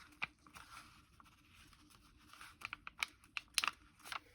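Paper being handled at a craft table: faint rustling, then a quick run of small clicks and taps in the last second and a half.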